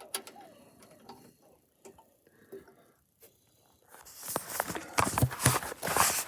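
Metal hand tools clicking and clinking, sparse at first and then busy and loud from about four seconds in.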